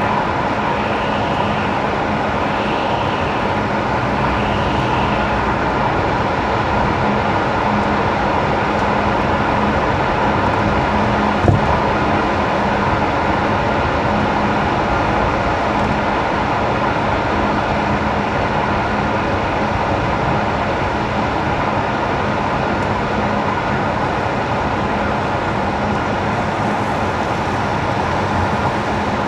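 Car driving on wet winter asphalt: a steady hiss of tyres on the wet road with a low, even hum underneath, and a single sharp click about eleven seconds in.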